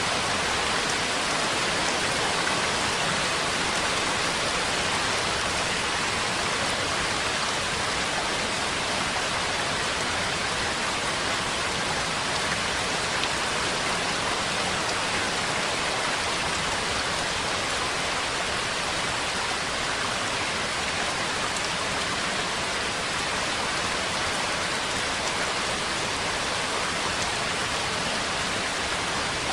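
Steady, even rain falling, a continuous hiss of drops with no thunder or breaks.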